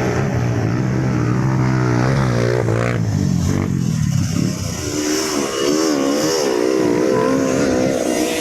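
Trail motorcycle engine running hard on a steep climb. It holds a fairly steady pitch at first, then from about halfway the revs rise and fall repeatedly as the throttle is worked.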